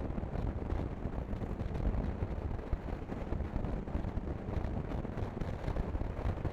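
Wind buffeting the microphone of a motorcycle on the move, a dense rumbling rush that gusts unevenly, with vehicle noise beneath.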